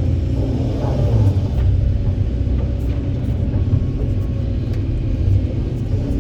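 Diesel engine of a Kobelco 200SK excavator running with a steady low rumble, a few faint knocks over it.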